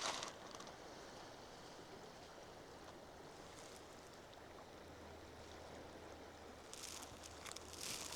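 Faint, steady outdoor ambience with no distinct events while the walker stands still. Footsteps crunching on the trail start again near the end.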